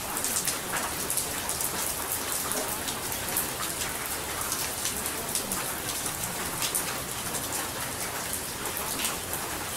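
Steady rain falling, with many individual drops ticking close by. This is the masking track of a subliminal audio.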